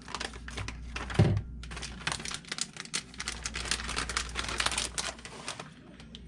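Rapid, dense crinkling and clicking, with one short low thud about a second in.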